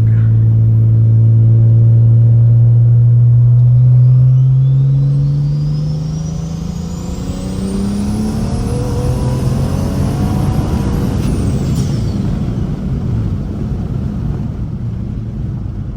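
Straight-piped N54 BMW 335i straight-six with a big single Precision 6266 turbo making a third-gear full-throttle pull, its exhaust note climbing steadily in pitch for about eight seconds with a rising turbo whistle above it. The pull is then cut short: the steady note breaks into a rougher coasting rumble, and a falling whistle is heard a few seconds later as the throttle comes off.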